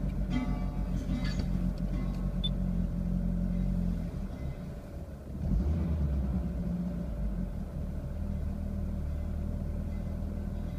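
Peugeot 205 GTI 1.6's four-cylinder engine idling steadily after a cold start, the rough running over and settled at about 900-1000 rpm. The sound dips about four seconds in and comes back louder a second or so later.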